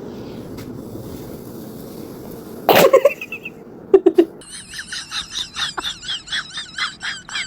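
Parrot vocalising: a loud, cough-like sound a little under three seconds in, then from about halfway a run of quick warbling chirps, roughly three a second.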